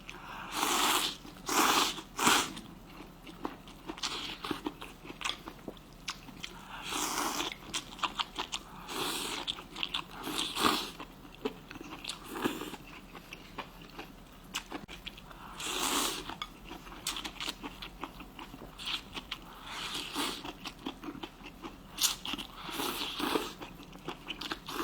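A person eating close to the microphone: irregular crunchy bites and chewing of hotpot food, with stronger noisy bursts every few seconds.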